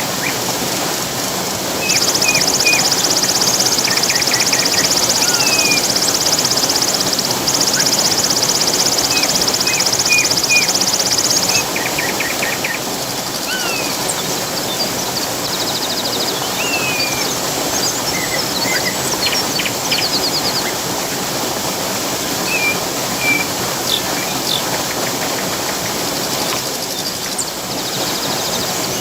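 Steady rushing water with songbirds chirping and calling over it. From about two seconds in until about eleven seconds, a loud, high, rapid trill runs, with a short break in the middle.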